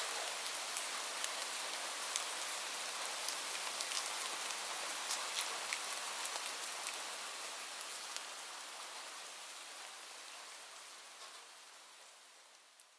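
Recorded rain: a steady hiss of rainfall with scattered sharp drop ticks, fading out gradually over the second half.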